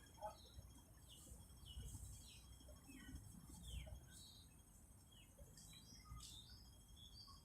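Faint bird calls: many short chirps, several sliding down in pitch, scattered all through, over faint steady high tones and a low rumble.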